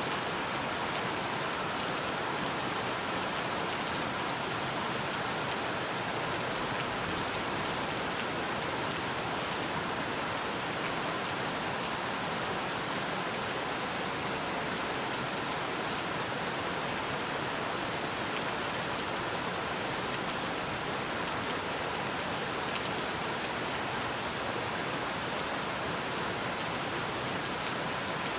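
Steady rain falling, an even dense hiss with scattered ticks of single drops striking a surface.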